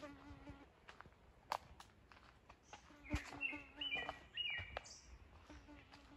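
Songbirds chirping in woodland, with a quick run of short chirps in the middle, while a fly buzzes on and off close by. A few sharp knocks are mixed in, the loudest about three seconds in.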